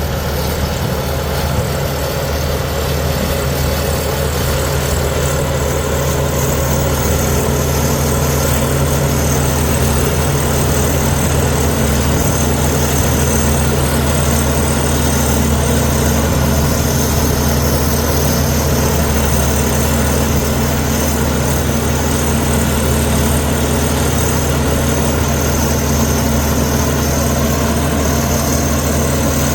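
Komatsu D61EX bulldozer's diesel engine running at a steady, loud, unchanging pitch.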